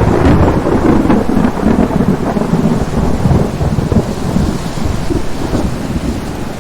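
Thunder rumbling over heavy rain, loudest in the first second or so and then slowly easing off.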